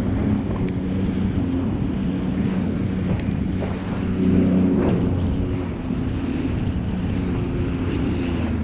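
Jet ski engine running steadily under way, with wind buffeting the microphone and water noise; it gets a little louder about halfway through.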